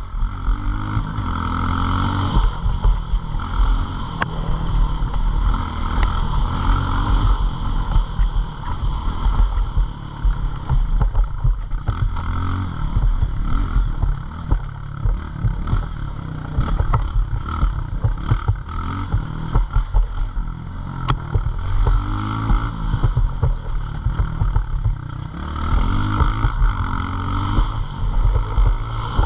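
Pit bike engines running hard, repeatedly revving up and easing off every few seconds, with wind noise and occasional sharp knocks.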